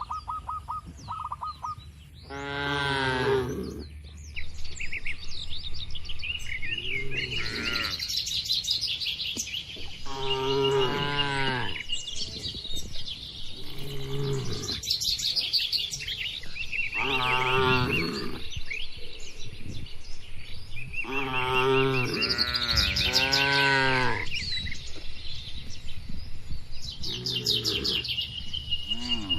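Cattle mooing, about seven separate calls of roughly a second each, with their pitch rising and then falling. Birds chirp between the calls.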